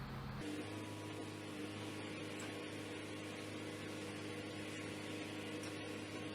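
Scania truck's diesel engine running steadily, a low even hum with a few fixed tones; the sound changes abruptly about half a second in.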